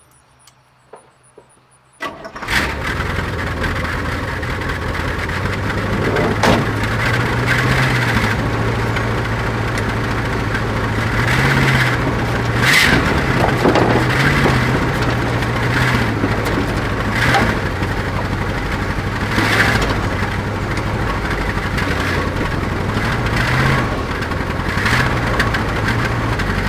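The 1970 Chevrolet C-40 truck's engine fires up suddenly about two seconds in and keeps running steadily, its speed rising slightly now and then.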